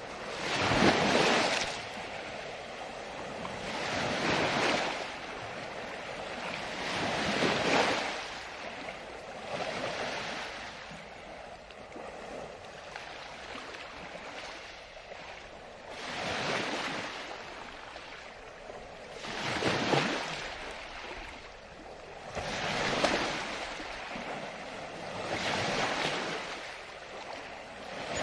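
Ocean surf: waves break and wash in one after another, each a rush of noise that swells and fades about every three seconds. The loudest comes about a second in.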